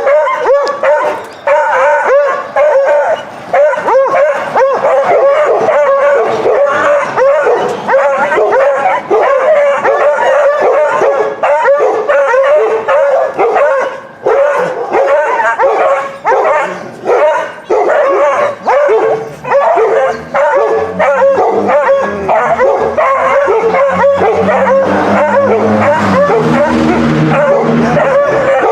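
A group of dogs, Labradors and hounds, barking nonstop over one another, with yips mixed in. A lower steady sound joins in for a while from about two-thirds of the way through.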